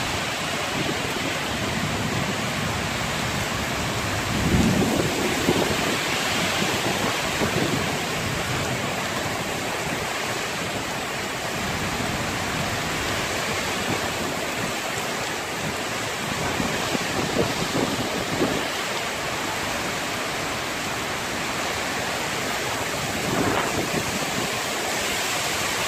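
Heavy rain pouring steadily in a windstorm, an even hiss, with wind gusts buffeting the microphone in low rumbles a few times, the strongest about five seconds in.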